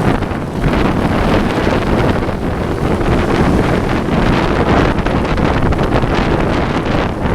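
Heavy wind buffeting the microphone: a continuous, loud, rumbling rush with no distinct tones.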